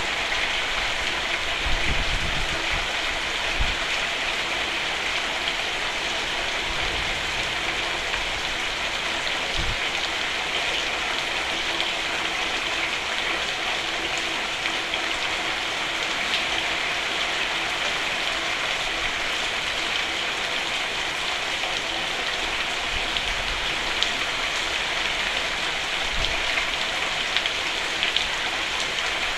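Steady rain falling on a roof, an even hiss of drops with a few brief low thuds underneath.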